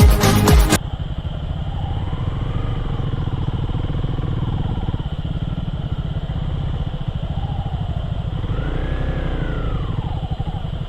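Background dance music cuts off about a second in, leaving a motorcycle engine running steadily at low revs, with a couple of faint rising and falling tones over it.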